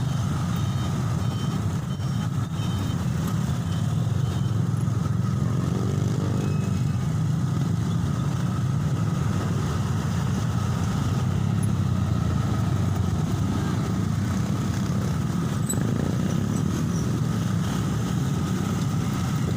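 Dump truck engines running steadily in busy traffic, a continuous low engine rumble that stays at about the same level throughout.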